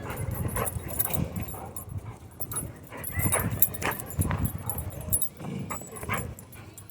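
A blue nose American Bully makes short, irregular vocal noises while playing tug-of-war on a toy.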